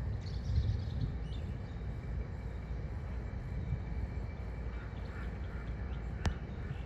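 Outdoor storm ambience: a steady low rumble with a few short bird chirps in the first second or so. A single sharp click comes near the end.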